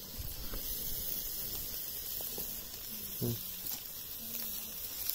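Dried ribbonfish frying in oil in an aluminium wok over a wood fire: a steady sizzling hiss with a few sharp crackles.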